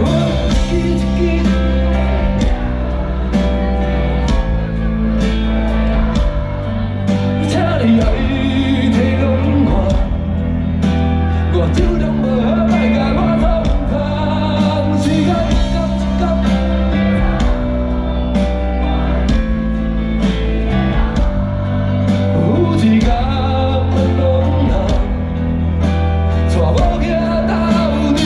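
Live band music over a PA: a song in a slow rock style with a steady drum beat, a heavy bass line and a sung melody.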